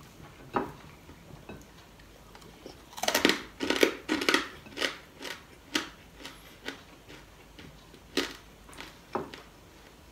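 Close-up crunching of crispy fried pork being bitten and chewed: one sharp crack under a second in, a dense run of loud crunches about three seconds in, then single crunches spaced out and fading, with a few more near the end.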